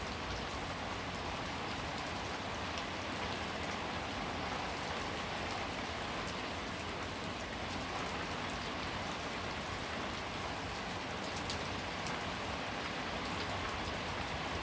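Steady rainfall, an even hiss with a few separate drops ticking sharply through it.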